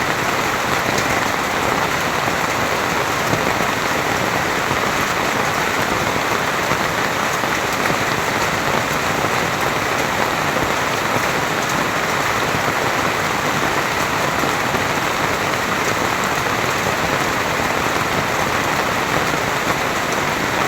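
Heavy rain pouring down steadily, an even dense hiss of drops falling on surfaces with no letup.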